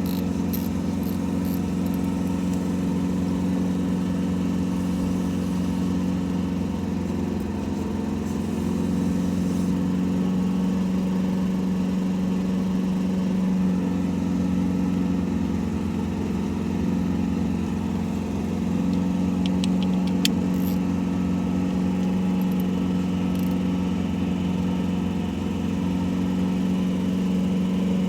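A steady mechanical drone like an engine idling, unchanged throughout, with a few faint light ticks about twenty seconds in.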